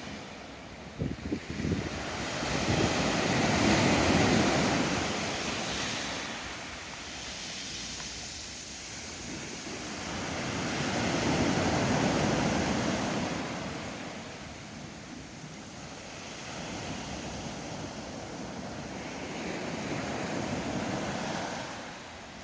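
Ocean waves breaking on a shore, the surf swelling and falling back three times about eight seconds apart. A quick run of sharp clicks sounds about a second in.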